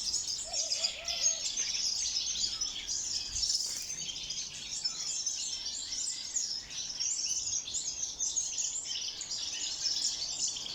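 Many small aviary finches chirping and chattering together in a dense, continuous high chorus, with a brief lower call about half a second in.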